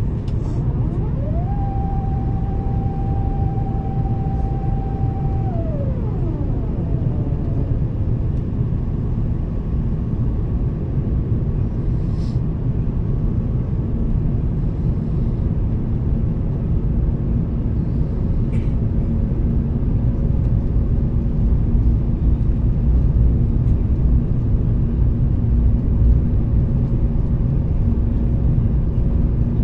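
Steady low rumble of an Airbus A350-1000 in flight, heard inside the passenger cabin: engine and airflow noise. About a second in, a whine rises, holds steady for about four seconds, then slides down and fades; the rumble grows slightly louder near the end.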